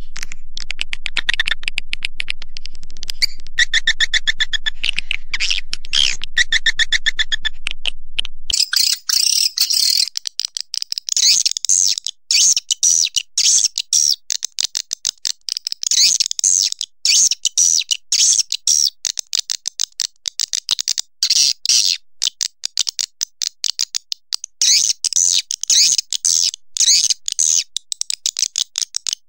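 Edible-nest swiftlet calls from a lure recording: dense, rapid chirping and clicking twitter. About eight seconds in, a low hum underneath stops, and the chirps continue in quick bursts with short gaps between them.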